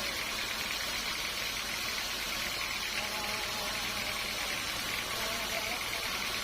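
Sawmill machinery running steadily: an even mechanical noise with a fast, regular pulsing buzz in the upper range.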